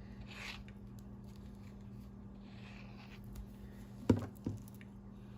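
Paper and craft supplies being handled on a tabletop: soft rubbing and rustling of paper, then two sharp knocks a little after four seconds in, as of something set or tapped down on the table. A steady low hum runs underneath.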